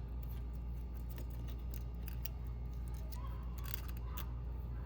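Light, scattered metallic clicks and scrapes of a thin feeler gauge being worked in and out of the valve clearance gap under a Honda Fit's rocker arm, checking valve lash after the adjuster was tightened. A steady low hum runs underneath.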